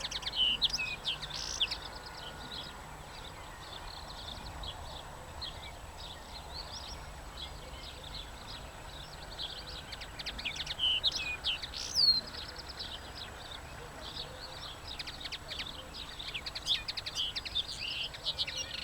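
A small songbird chirping and twittering in quick, high bursts. The busiest bursts come about a second in, again around ten to twelve seconds in, and near the end, with sparser chirps between.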